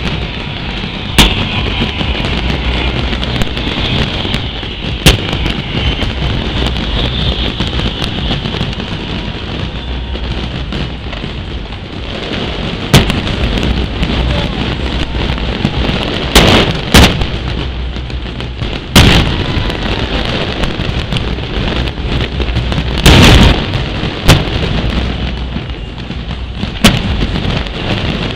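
Fireworks display: a string of sharp bangs at uneven intervals, about nine in all, with a continuous rumble and crackle of bursting shells between them.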